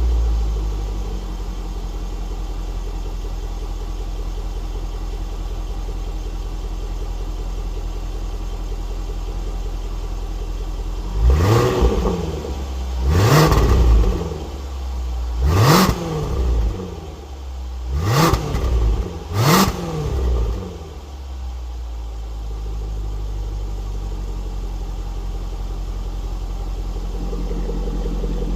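Range Rover L405's supercharged V8, with a valved exhaust and the resonator deleted, idling, then blipped five times in quick succession, each rev rising and falling back, before settling to idle again.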